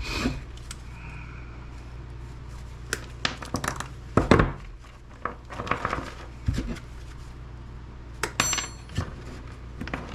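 Hard scrap items being handled and set down: irregular clattering knocks and clinks, the loudest a little after four seconds in, with a short metallic ring about eight and a half seconds in.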